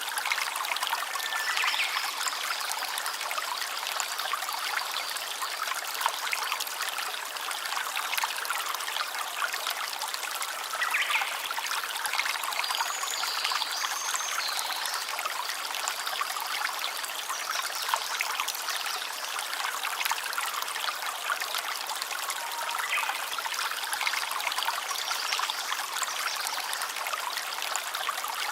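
A stream trickling and bubbling steadily over stones.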